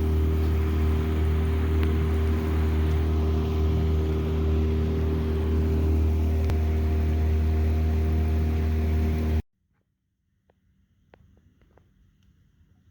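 Motorboat engine running steadily with a loud low drone, which cuts off abruptly about nine seconds in, leaving near silence with a few faint ticks.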